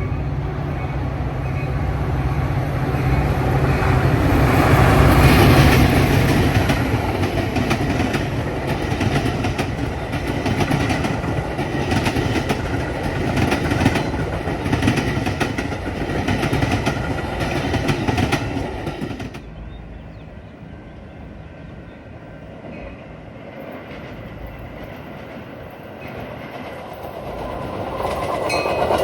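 A train passing close by. First the steady drone of a diesel locomotive, then a long string of rhythmic clickety-clack from the cars' wheels over the rail joints. The sound drops off sharply about two-thirds of the way through and builds again near the end.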